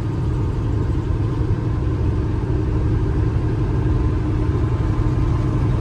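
Steady low drone of a semi truck's diesel engine and road noise, heard from inside the cab while cruising on the highway.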